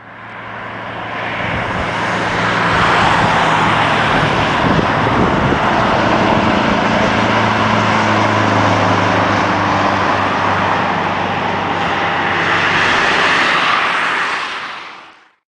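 Scania 164L 580's V8 diesel engine running loud through an open exhaust pipe with no muffler. The sound swells over the first couple of seconds, holds steady, and cuts off shortly before the end.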